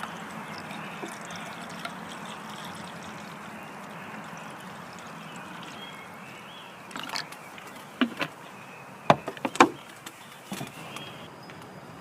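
Food sizzling in a pan, a steady hiss that fades about six seconds in. Then come several sharp clicks and knocks, the loudest two close together a little after nine seconds.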